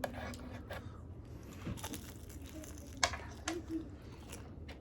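Biting into and chewing an air-fried lemon pepper chicken wing: a few sharp crunches among quieter mouth sounds.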